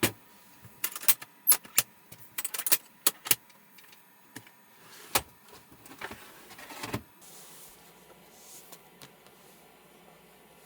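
A run of sharp clicks and light clatters of small hard objects being handled, tailing off about seven seconds in, then only a faint steady hiss.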